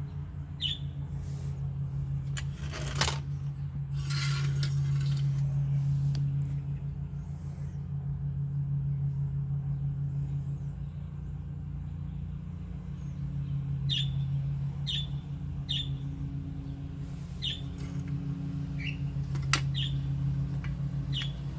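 A steady low hum that swells and fades slowly, with a few knocks of metal parts being handled about three and four seconds in. In the second half, a series of short high chirps from a bird, about one a second.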